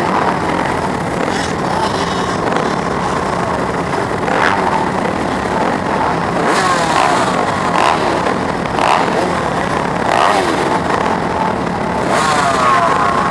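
Four-stroke 250cc motocross bike engine revving hard, its pitch climbing again and again as it accelerates through the gears, heard from onboard the bike among other racing motorcycles.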